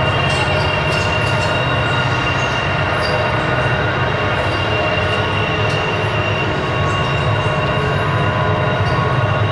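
Freight cars of a long intermodal train rolling slowly through a tight curve. A steady low rumble runs under a continuous high-pitched wheel squeal, with scattered light clicks from the wheels and cars.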